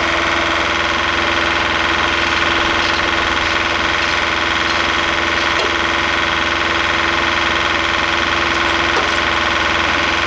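An engine running steadily at a constant speed, with an even hum and no change in pitch or level.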